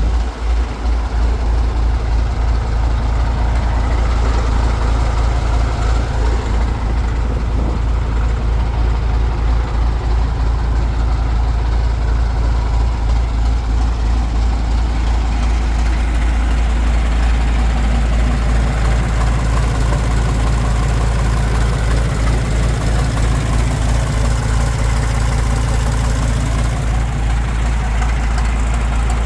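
The 12.7-litre 10-cylinder diesel engine of a 1986 MAN M1001 8x8 military truck idling steadily with a deep, even rumble.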